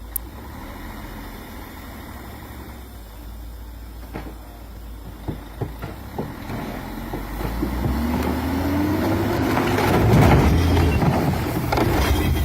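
Truck engine running with a low rumble, a few short knocks near the middle. In the second half it rises in pitch and grows louder.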